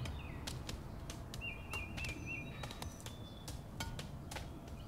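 Outdoor ambience with small birds chirping: a quick run of four chirps near the middle and a few single whistled notes after it, over a low steady background hiss, with scattered sharp clicks.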